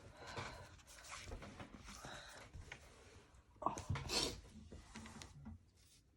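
Faint rustling and handling of paper and craft supplies, with a brief cluster of louder scrapes and knocks about four seconds in.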